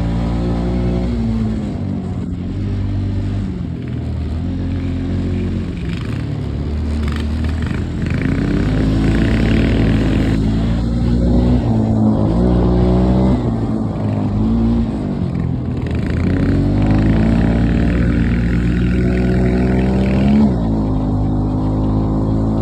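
Mini bike's small engine running under load as it is ridden, its pitch rising and falling again and again with the throttle. It climbs longest toward the end, then drops away.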